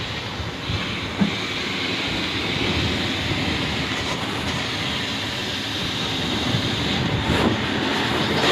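A steady machine noise with a strong hiss and a low rumble underneath, and a brief thump about a second in.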